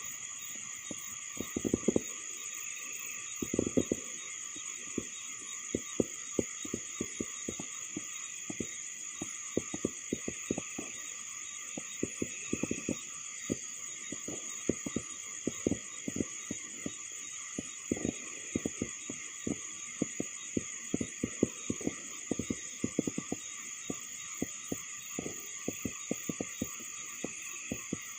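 A steady, high chorus of crickets, with many irregular sharp clicks and crackles.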